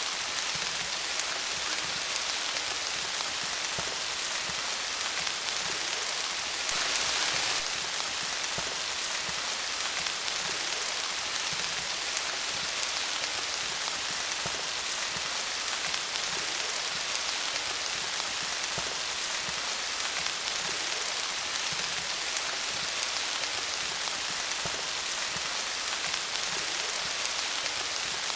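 Steady rain falling on leaves: a dense, even patter of drops, briefly louder for about a second around seven seconds in.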